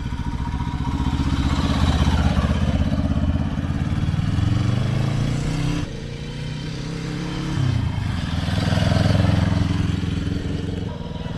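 1965 Honda CL77 305 Scrambler's parallel-twin engine running as it is ridden, its pitch climbing as it accelerates and easing back. The sound drops suddenly about six seconds in, then rises again.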